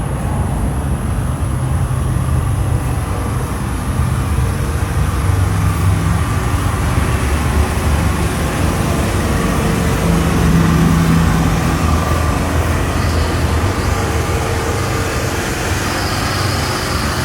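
A 1985 Oldsmobile Delta 88's 5.0-liter V8 running, a low steady rumble whose pitch shifts a little now and then.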